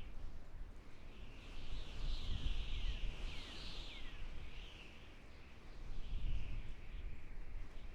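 Forest birds calling, a dense high chorus that swells and fades, with a few quick downward-sweeping calls near the middle, over a low rumble.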